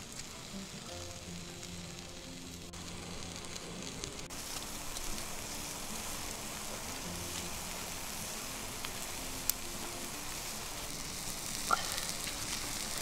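Food sizzling as it fries in a pan over a campfire, the hiss growing fuller about four seconds in, with a couple of faint clicks near the end. Background music with held notes plays underneath.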